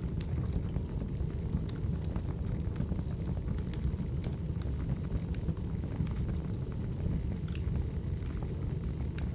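Firewood burning: a steady low rumble of flames with scattered sharp crackles and pops at irregular moments.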